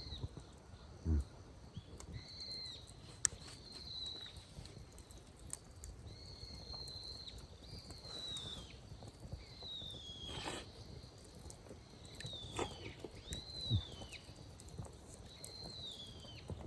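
A bird calling over and over, short calls that rise and fall, one every second or two. Two dull thumps come near the start and a sharp click about ten seconds in.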